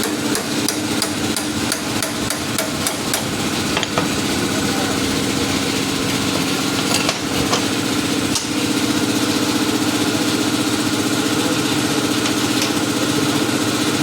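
Small single-cylinder four-stroke moped engine running steadily, with a quick series of sharp taps, about three a second, over the first three or four seconds.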